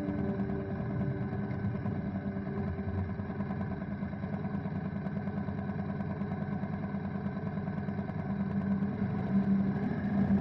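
BMW motorcycle engine running steadily under way, with road and wind noise, getting a little louder near the end.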